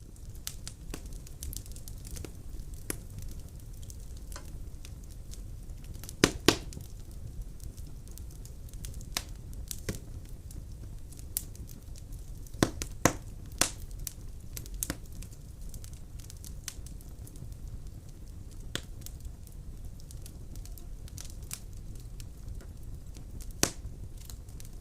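Wood fire burning in a Solzaima Amber stove-fireplace: irregular sharp crackles and pops over a low steady rumble. The loudest pops come about six seconds in, as a pair around thirteen seconds, and once near the end.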